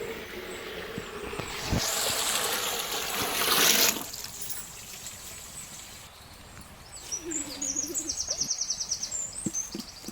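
Water being poured into a large cooking pot: a splashing stream that grows louder for about four seconds, then stops. Later comes a fast, high-pitched rattling trill.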